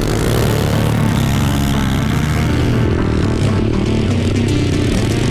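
Small single-cylinder pit bike engine running steadily.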